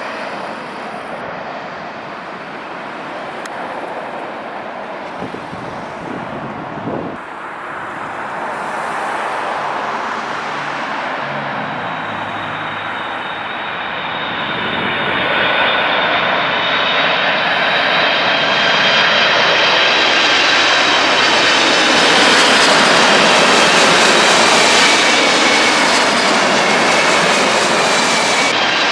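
Jet airliner on final approach to land, its engines' noise building from a distant rumble to a loud, close pass about halfway through, with high whining tones that slowly fall in pitch as it goes by.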